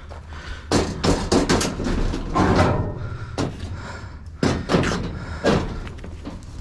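Scrap items being handled and loaded onto a truck: a series of sharp knocks and bangs, several in quick succession about a second in, then single bangs spread through the rest.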